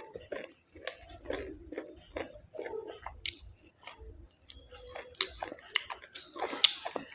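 A person chewing and eating close to the microphone: irregular wet smacks and mouth clicks.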